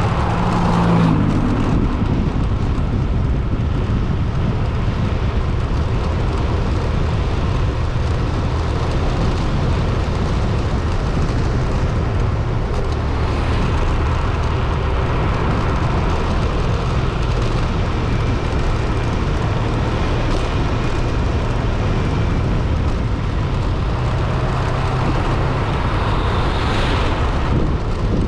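A vehicle driving steadily along a road: a continuous low engine drone with road and wind noise.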